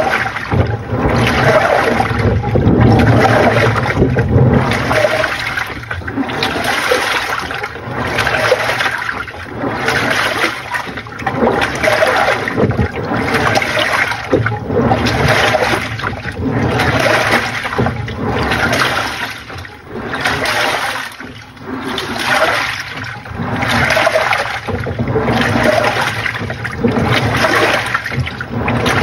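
Panasonic NA-FA80H8 top-loading washing machine churning its load, water sloshing in regular surges a little more than once a second as the pulsator drives the wash back and forth.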